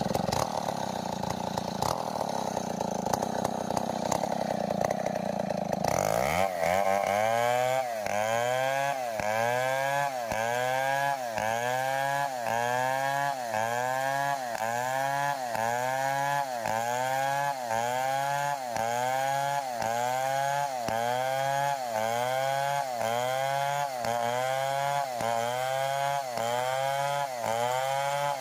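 Stihl 070 two-stroke chainsaw running, first with a rough, noisy sound like cutting wood, then from about six seconds in with its engine pitch swinging up and down evenly about once a second.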